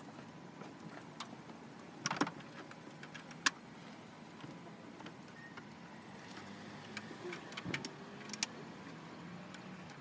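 Scattered sharp clicks and light knocks of a distributor cap's twist-lock latches being turned and seated, the cap being locked down on the distributor. There are two clicks about two seconds in, one at about three and a half seconds, and a cluster near the end.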